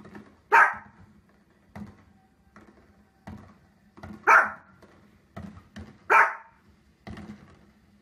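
A small dog barking three times, short sharp barks spaced a few seconds apart, with quieter thumps in between.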